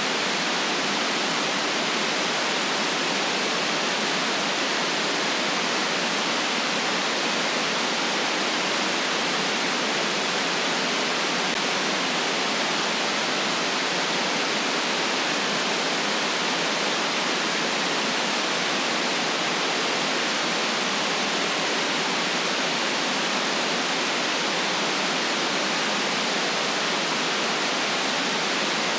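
Steady electronic white noise, a constant hiss cut off sharply below the lowest bass and above the highest treble, unchanging throughout.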